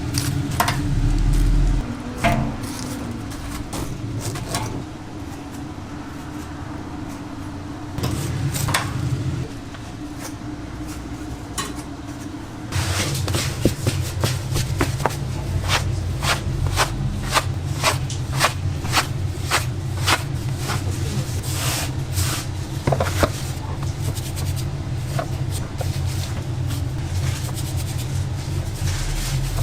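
Kitchen work sounds: repeated sharp knocks, clinks and scrapes of utensils and equipment, coming quickly in the second half, over a steady machine hum.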